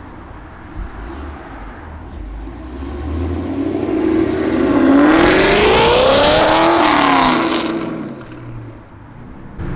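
A car engine revs up and back down: its pitch climbs steadily for a few seconds, peaks and falls away, and it is loudest and harshest near the top of the rev.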